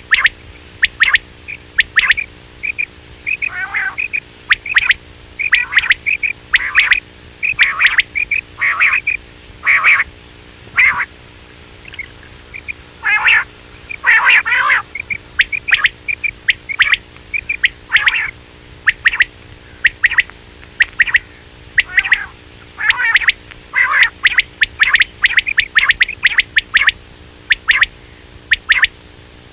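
Quail calling over and over: short, sharp, high notes, mostly in quick runs of two to four with brief pauses between runs. A faint steady hum lies underneath.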